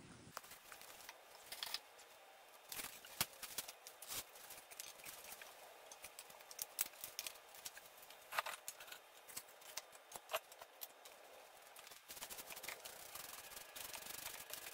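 Faint, irregular clicks, knocks and scrapes of tools and building materials being picked up, moved and set down while the fireplace opening is cleared out.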